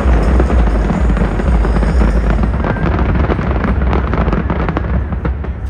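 Fireworks going off in a dense barrage: rapid crackling and sharp reports over a heavy low rumble, thinning out near the end.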